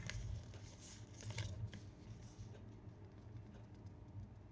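Tarot cards being handled: a few faint light taps and rustles over a low steady hum.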